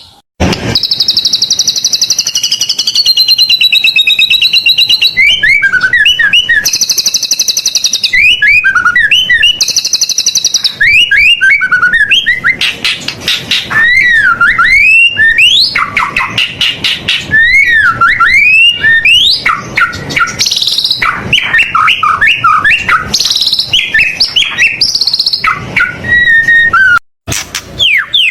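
White-rumped shama (murai batu) singing a loud, varied song of high trills, rising and falling whistled notes and quick chattering phrases. The song breaks off briefly just after the start and again about a second before the end.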